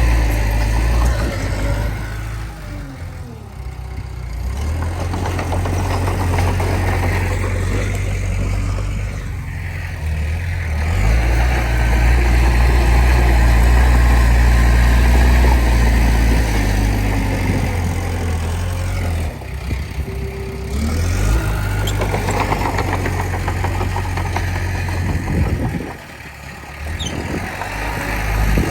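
Heavy diesel earthmoving machinery running. The engine's level rises and falls with the load, easing off briefly a few seconds in and again near the end.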